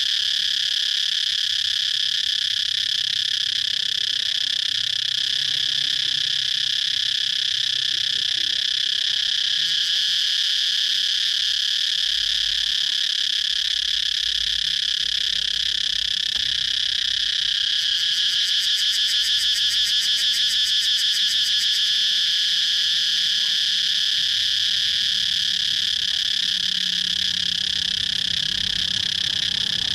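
Cicadas singing in a steady, high-pitched chorus. Between about 18 and 22 seconds in, a louder, rapidly pulsing call rises over it for a few seconds.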